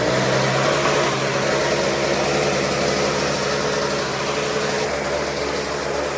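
Pickup truck engine idling steadily, with no revving.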